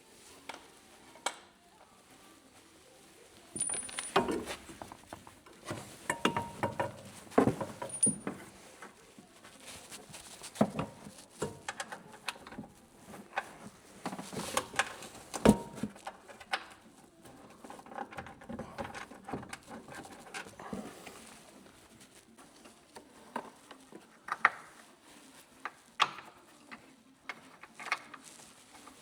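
Metal coilover parts and hand tools being handled and set down: irregular clinks and knocks, some with a short metallic ring, busiest in the first half.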